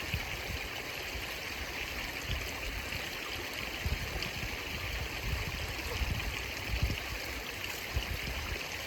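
Steady rushing of flowing river water, with irregular low rumbles underneath.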